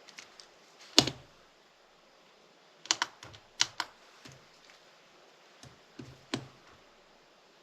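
Plastic Rubik's cube being turned during a solve: sharp clacks as the layers snap round, coming singly and in quick clusters of two or three with pauses in between, the loudest about a second in.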